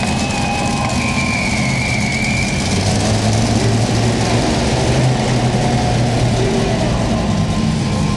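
Monster truck engine running steadily at low revs, a deep even note, with a thin high tone over the first few seconds.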